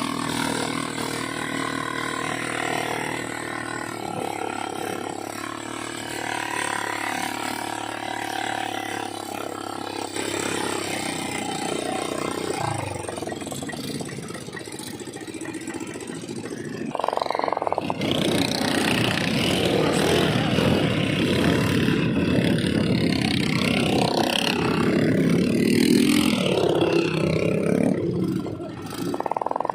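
ATV engine running steadily. About seventeen seconds in, a louder, rougher noise takes over.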